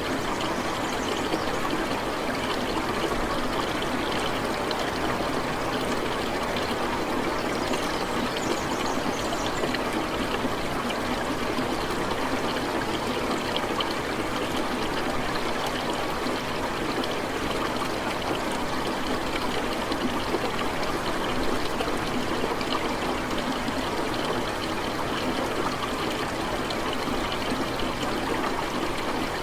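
Steady rain falling without let-up, an even wash of water with no thunder.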